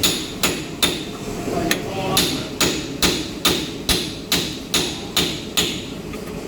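Hammer striking metal in a steady series of blows, about two a second, each ringing briefly; the blows stop near the end.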